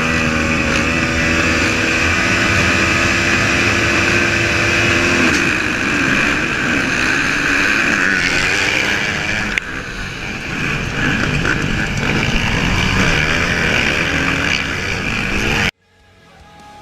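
Motocross dirt bike engine running hard and loud at a steady pitch, then rougher and more uneven, cutting off suddenly to much quieter sound near the end.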